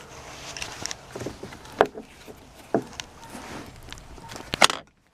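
A few sharp knocks and clunks with light rustling as the rear seats of a Honda Pilot are handled and moved. The loudest knock comes near the end, then the sound cuts off abruptly.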